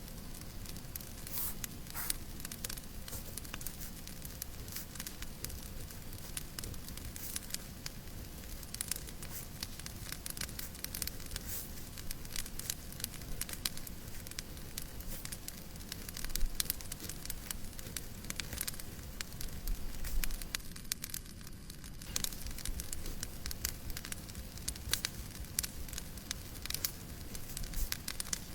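Wood fire crackling, with frequent sharp pops over a steady hiss of white noise.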